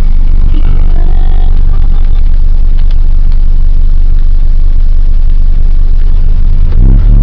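1998 Nissan Eagle pickup truck's engine running steadily with a loud low drone that nearly overloads the microphone. About seven seconds in it surges briefly louder with a rise in pitch.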